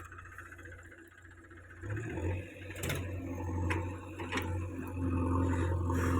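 A small machine starts humming steadily about two seconds in, with a few sharp clicks over it.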